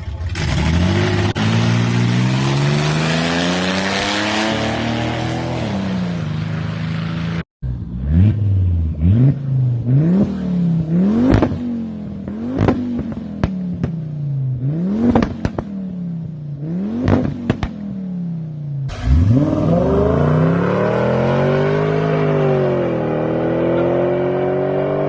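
Car engines revving, one after another. First a long pull, the engine climbing in pitch and holding high. Then, after a sudden cut, about eight quick throttle blips, each rising sharply and dropping back. Then a third engine revs up and holds high.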